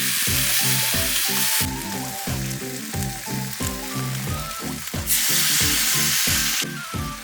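Sukiyaki sizzling in an iron frying pan, loudest at the start and again about five seconds in, with background music playing underneath.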